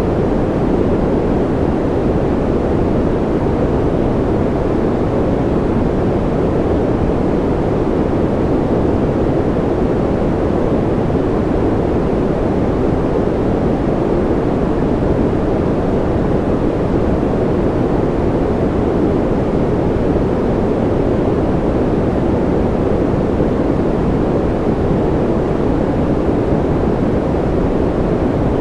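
Steady, unchanging white noise for baby sleep: a deep, muffled hiss with most of its weight in the low-middle range and little treble.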